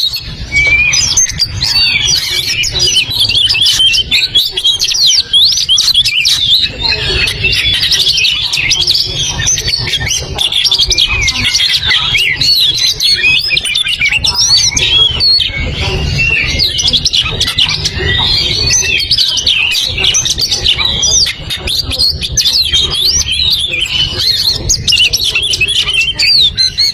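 Oriental magpie-robin singing vigorously: a fast, unbroken stream of varied, rapidly rising and falling whistled phrases, over a low steady rumble.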